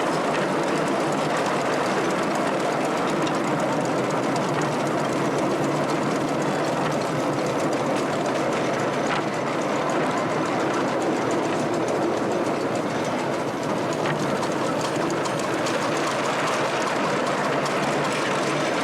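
A miniature railway train running along the track, with a steady rumble and the clickety-clack of its wheels.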